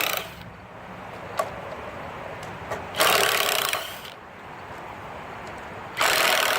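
Ryobi 18-volt cordless impact driver hammering in two short bursts of about a second each, driving screws into wood, with a few small clicks between the bursts.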